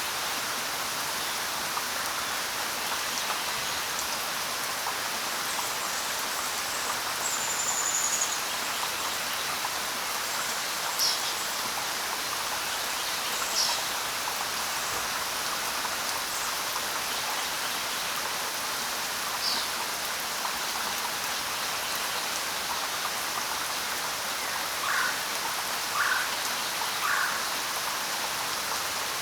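Steady rain, an even dense hiss, with a few brief bird calls over it: a high falling whistle early in the first third, scattered short high chirps through the middle, and three lower calls about a second apart near the end.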